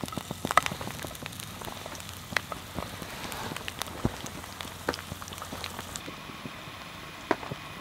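Slices of food frying in oil in a cast iron skillet over a propane fire pit: a steady sizzle with scattered sharp pops and crackles.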